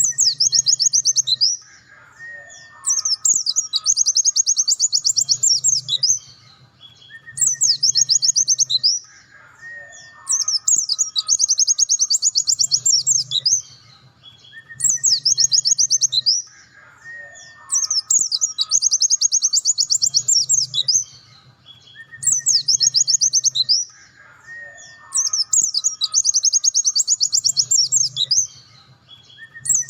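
Pleci dakun white-eye singing: a high, very fast trill of about two seconds, led in by a short sharp phrase, repeated at even intervals about every four and a half seconds.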